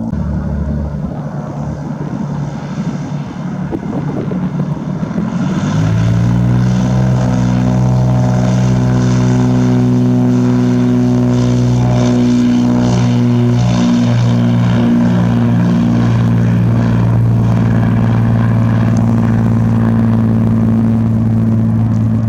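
Propeller airplane's engine running; about six seconds in it grows louder and settles into a steady, even drone.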